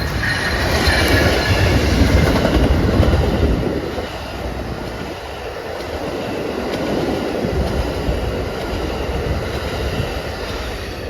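A train running past on the rails, wheels clattering, loudest in the first few seconds, with a faint wheel squeal near the start.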